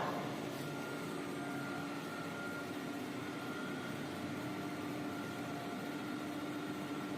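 Automatic band saw roll-cutting machine for maxi paper rolls running: a steady machine hum with a faint constant whine above it.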